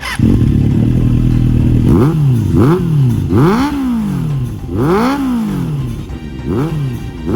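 Suzuki GSX400 Impulse inline-four engine breathing through a Trickstar aftermarket muffler, with a deep, thick exhaust note. It idles steadily for about two seconds, then the throttle is blipped about six times, each rev rising and falling quickly.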